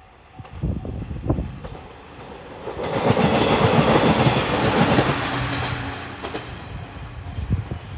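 JR Shikoku 2700 series diesel express train passing close by on the rails. Its noise builds from about half a second in, is loudest about three to five seconds in, and then dies away.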